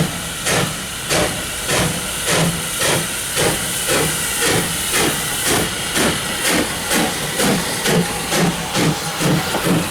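Steam locomotive working under power, with rhythmic exhaust chuffs over a steady steam hiss. The beats speed up gradually from about two to about two and a half a second as the engine gathers speed.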